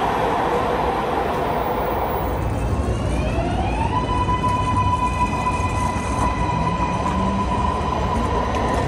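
MARTA electric rail train running, with steady wheel-and-track rumble. About three seconds in, a high whine rises in pitch and then holds steady as the train gathers speed.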